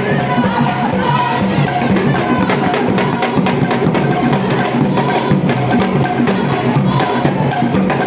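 Drum-led live music with a steady rhythm of dense drum strokes, a melody line running above it.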